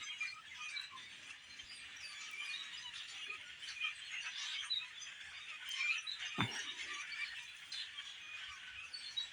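Dense chorus of chirps and calls from a large flock of birds, many short overlapping calls with no let-up. A single brief thump about six and a half seconds in.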